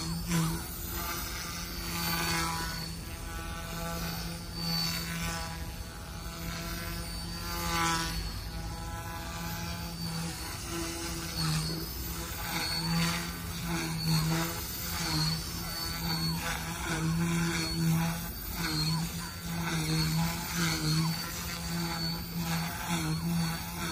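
YU XIANG F1 dual-brushless RC helicopter flying aerobatics: a steady rotor buzz holding one pitch, swelling and dipping in loudness as it manoeuvres, with a high motor whine wavering above it.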